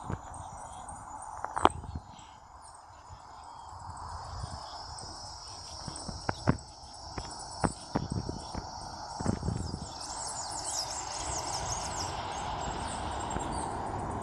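Outdoor garden ambience: a steady high insect drone, with scattered clicks and knocks, and a flurry of rapid high chirps about ten seconds in.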